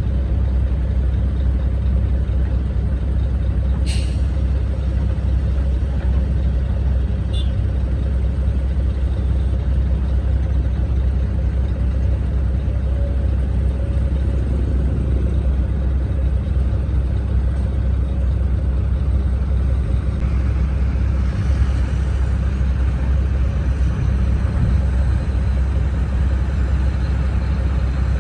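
Large earth-hauling truck's engine running steadily with a deep, even rumble. A short sharp click about four seconds in and a fainter one a few seconds later.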